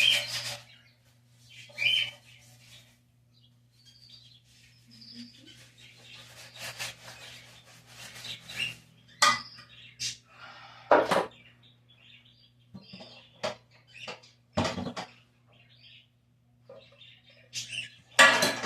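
Small birds chirping now and then, mixed with several sharp knocks and clatters and a steady low hum.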